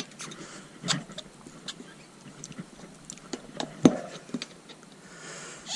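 Tyre levers knocking and scraping against a motorcycle wheel rim and tyre as the bead is prised off: scattered sharp knocks, the loudest nearly four seconds in.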